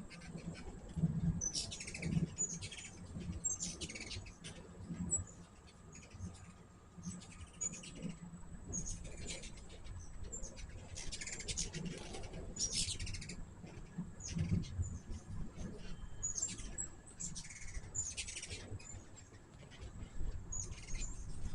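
Hummingbirds at a feeder giving many quick, high chips and short scratchy chatters, coming in frequent bursts.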